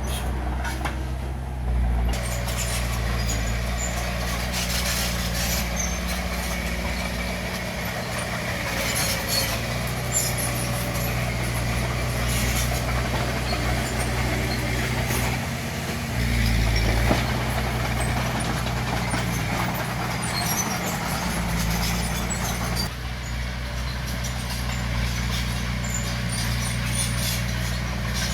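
Bulldozer's diesel engine running under load, its pitch rising and falling, with scattered metallic clanks and rattles.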